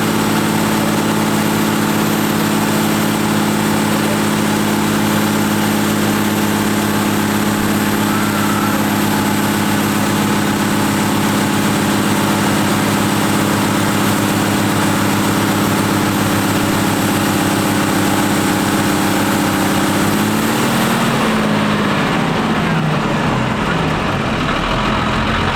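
New Holland TM140 tractor engine running at steady high revs on a dynamometer test; near the end the revs drop and waver as the run comes off.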